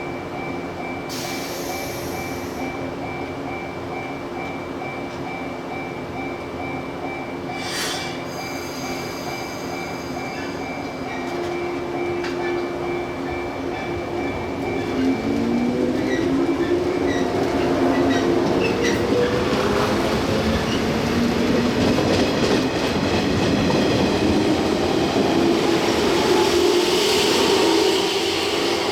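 Shinano Railway 115 series electric train pulling away and accelerating. A steady hum holds for the first half, then from about halfway the motor tones rise in pitch and grow louder.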